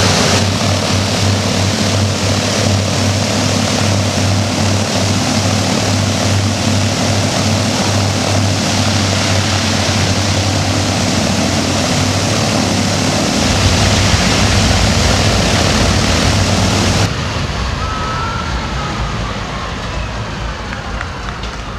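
Wright R-3350 radial piston engines of a Lockheed LC-121T Constellation running in a ground run-up, a loud steady deep drone with heavy propeller noise. About 17 seconds in the sound drops suddenly to a quieter, duller note with a faint falling whine.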